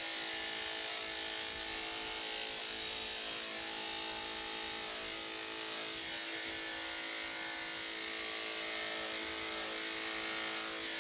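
Electric dog clippers fitted with a #7 blade, running with a steady hum.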